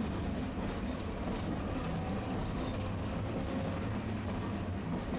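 Tosaden streetcar running along its line, a steady rumble of motor and wheels on the rails heard from inside the tram.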